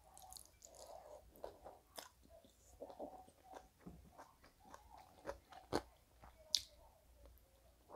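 Close-miked chewing of a mouthful of rice, greens and duck meat, eaten by hand: quiet, wet mouth sounds with scattered small clicks and crunches, and a few sharper clicks, the loudest about six seconds in.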